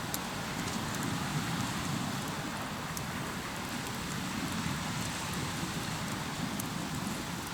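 Waves washing on a shore in slow, steady swells, with a few faint pops from a hardwood campfire crackling.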